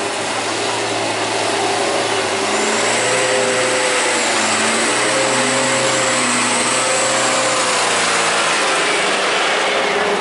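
Truck's diesel engine working hard and revving, its pitch rising and falling several times, with a faint high whine above it.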